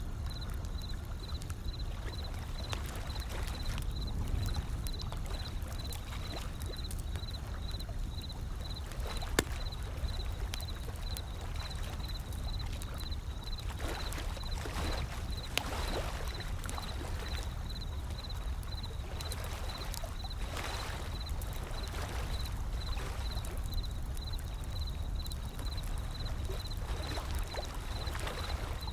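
Wood fire crackling with scattered sharp pops, the strongest about nine seconds in, over a low, steady rumble of ocean waves rolling in and washing up.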